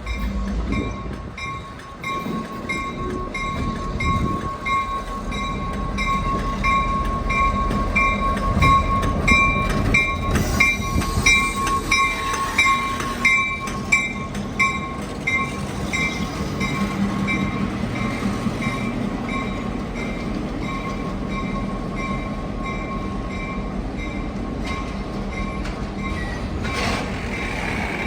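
A train running by with a low rumble of wheels and cars. Over it, a high ringing repeats about twice a second and fades out around the middle.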